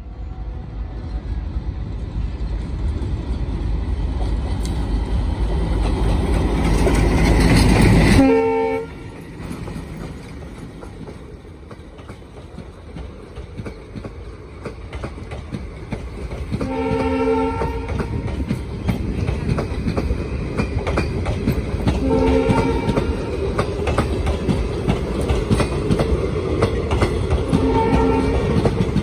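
Diesel locomotive of a passenger express growing louder as it approaches, its engine rumble peaking and dropping away sharply about eight seconds in as it passes, then the passenger coaches rolling by with a steady rumble and wheel clatter. A brief pitched tone sounds about every five or six seconds during the passing.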